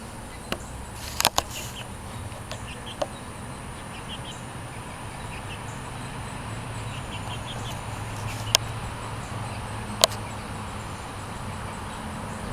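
Young chickens, about seven and a half weeks old, peeping softly in short runs of chirps. A few sharp clicks or taps break in: a pair about a second in and two more near the end.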